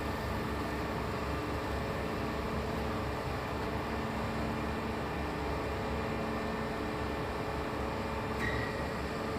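A machine running with a steady hum, a few held tones over a fluttering low rumble.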